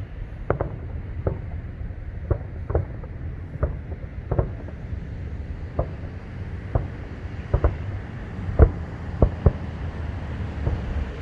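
Distant aerial fireworks shells bursting: a string of sharp bangs at irregular spacing, about one or two a second, over a low steady rumble.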